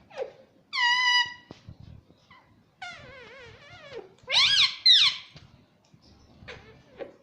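Indian ringneck parrot calling: a loud, held whistle about a second in, a wavering warble near three seconds, then two loud calls around four and a half seconds, with a few short, softer calls near the end.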